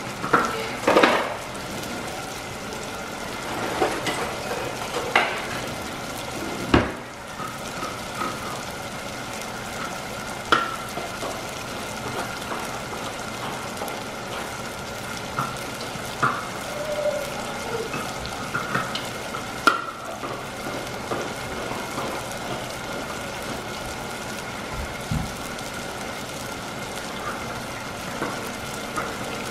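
Steady sizzle of food frying on the stove, with a faint steady tone underneath. A few short clinks and knocks of pots and utensils come and go, the sharpest about a second in and around five and seven seconds in.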